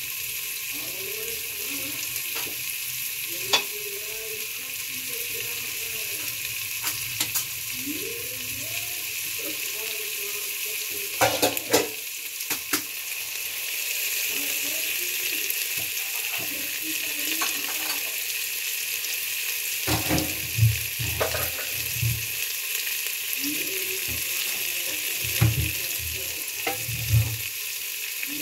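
Arrowroot chunks frying in hot oil in an aluminium pressure cooker, a steady sizzling hiss. Scattered clicks and knocks come through it, a cluster about a third of the way in and several more in the last third.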